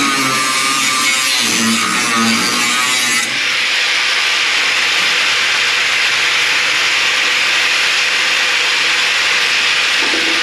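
A power tool cutting through the car body's sheet steel in one continuous cut. Its pitch wavers for the first three seconds, then it runs steadily.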